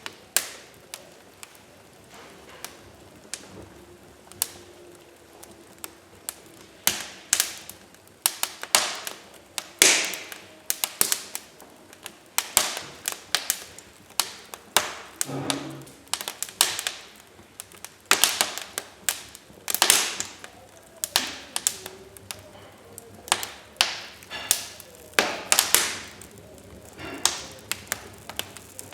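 Wood fire in a fireplace crackling: irregular sharp pops and snaps of varying loudness, often several a second, over a faint steady hiss.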